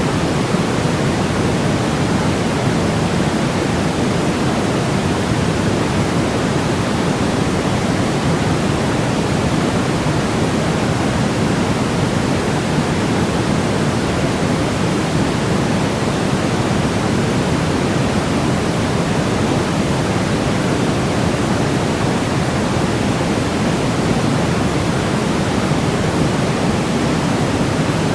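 Steady, unbroken synthetic noise: a deep even rush with most of its weight in the low range, fading toward the top, sold as white noise for baby sleep.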